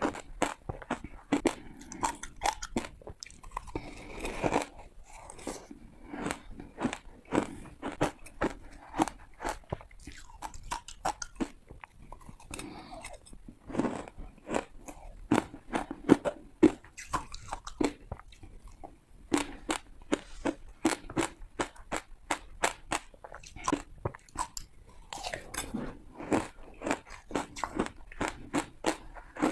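Ice being bitten and crunched between the teeth, close to the microphone: a dense run of sharp cracking crunches, several a second, with a few longer grinding chews.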